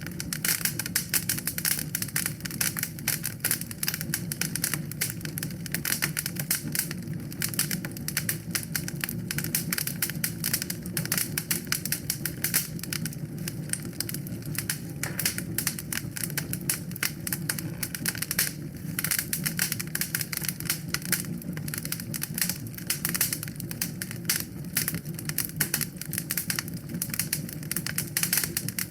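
Wood fire crackling in a fireplace: a dense, continuous run of small pops and snaps over a low, steady rumble of the flames.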